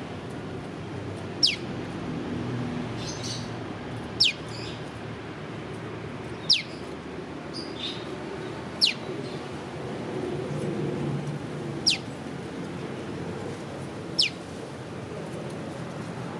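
Prenjak lumut giving its 'piw' call: single sharp whistled notes, each falling steeply in pitch, repeated six times about every two and a half seconds. Fainter, higher chirps from other birds fall between them over a low steady background rumble.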